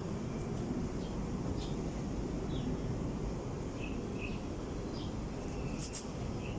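Steady low rumble with a few faint, short bird chirps over it, and a brief sharp click near the end.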